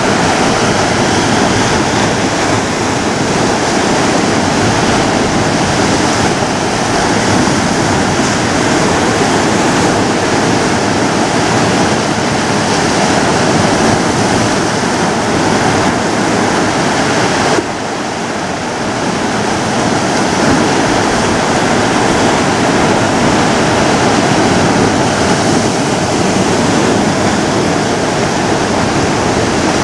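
Ocean waves breaking and washing on a shore, a continuous loud rushing surf. Partway through the level drops suddenly and then builds back up as the next wave comes in.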